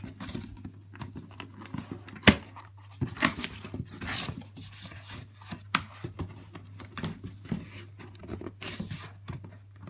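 Cardboard box and packaging being handled and pulled at: scraping, rustling and sharp cardboard knocks, with one loud knock about two seconds in. A steady low hum underlies it.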